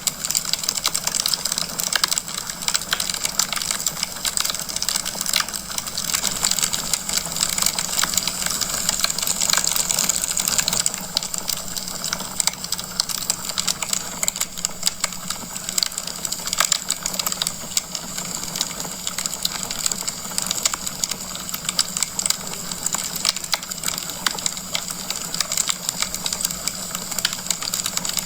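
Wood logs burning in a fireplace, crackling continuously with many small rapid pops and snaps over a steady hiss of the fire.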